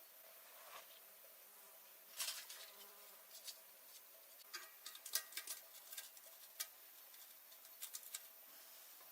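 A series of light, irregular clicks and taps, about a dozen spread over several seconds, against a quiet background with a faint steady hum.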